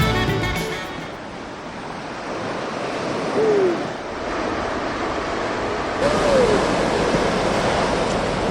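Ocean surf washing in a steady roar of noise, after background music fades out in the first second. Twice, a short falling hoot-like call sounds over the surf.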